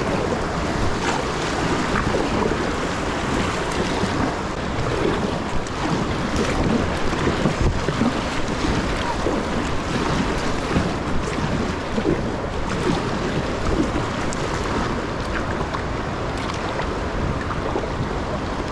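River water rushing and gurgling around a small fishing kayak paddled upstream against the current, with paddle strokes splashing and wind buffeting the microphone.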